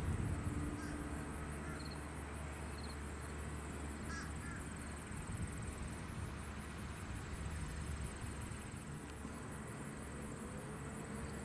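Faint, steady low drone of a distant Cessna 182 Skylane light aircraft, with a few short bird calls, including crow-like caws about one and four seconds in.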